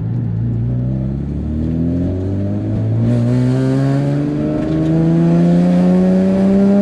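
Single-turbo Nissan 350Z's 3.5-litre V6 (VQ35HR) at full throttle, its note rising steadily in pitch through one gear in a long hard pull. A rushing hiss joins about three seconds in.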